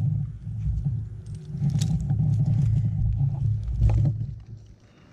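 An engine running with a low, uneven rumble and a few sharp clicks, then cutting off about four and a half seconds in.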